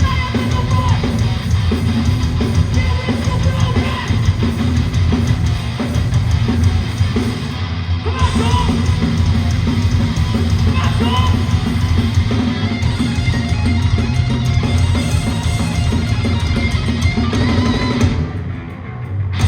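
Hardcore band playing live, loud, with distorted electric guitars, a pounding drum kit and vocals; the music thins out and drops off near the end.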